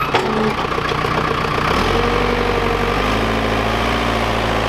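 Pit bike engine idling steadily, its note deepening about two seconds in.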